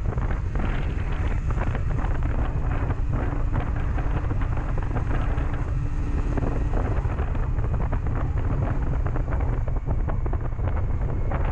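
Wind buffeting the microphone on a moving motorcycle, over the steady running of a 2007 Honda CB400SF's inline-four engine.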